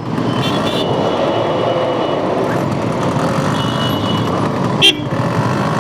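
Steady noise of jammed city road traffic heard from a motorcycle: engines running all around, with a couple of faint brief high tones and one short sharp sound about five seconds in.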